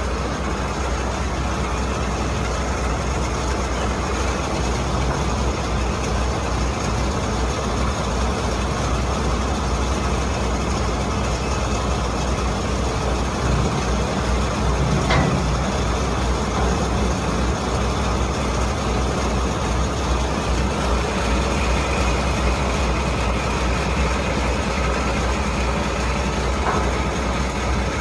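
Boat's engine running steadily, a low drone under a noisy wash, with a single light knock about halfway through.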